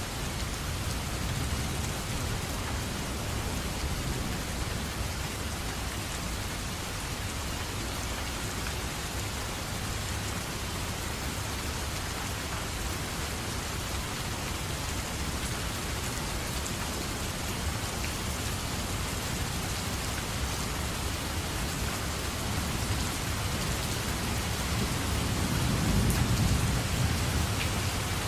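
Steady rain falling, with a low rumble of thunder swelling up near the end.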